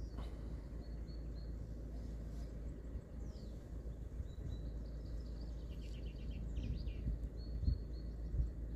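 Small birds chirping and singing, with a quick run of repeated notes about six to seven seconds in, over a steady low rumble. A few low thumps come near the end.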